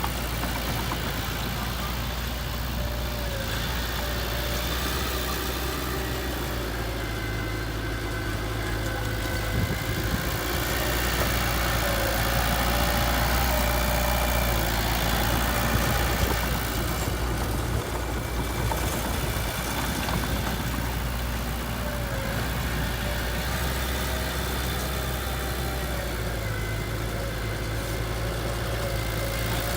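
Diesel engine of heavy earthmoving machinery running steadily near idle, a low even rumble.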